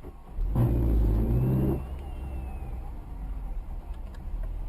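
Car engine and road rumble heard from inside a moving car, with a louder engine note lasting about a second, starting about half a second in, then settling back to a steady rumble.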